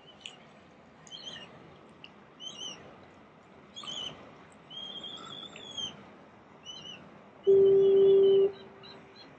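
Birds calling: short chirping calls, some rising and falling in pitch, scattered throughout, with one longer call about five seconds in. About three-quarters of the way through, a loud steady low tone sounds for about a second and cuts off.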